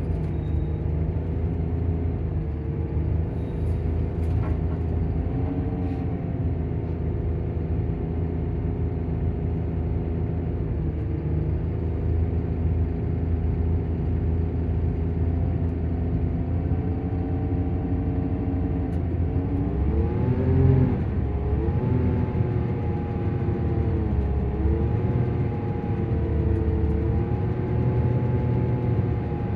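Volvo coach's diesel engine and cooling fan running steadily, a low drone with a whir. About two-thirds of the way through the revs drop and climb again, then waver slightly.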